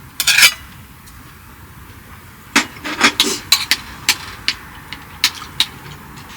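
A short scuffing burst, then a quick run of about a dozen sharp clicks and knocks from hard objects being handled.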